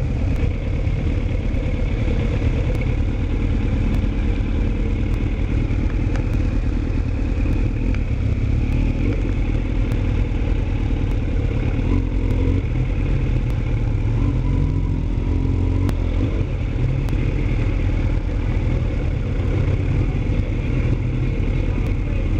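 Motorcycle engine running steadily, with a fast, even low pulsing and no clear revs.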